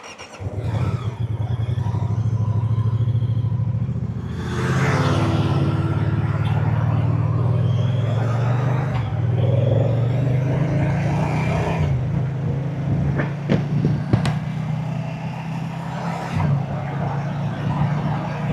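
Moto Guzzi transverse V-twin motorcycle engine catching about half a second in and running with a low, even exhaust note, then rising in revs about four seconds later as the bike gets under way.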